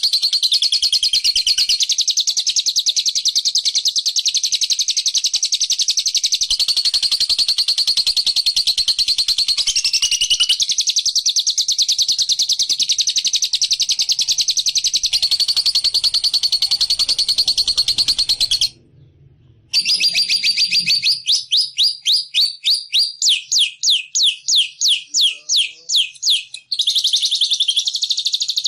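Recorded songbird chatter played as a bird-catching lure: a dense, high-pitched, rapid continuous chattering song. It breaks off for about a second two-thirds of the way in, then comes back as a run of quick down-slurred notes, about three a second, before the continuous chatter resumes near the end.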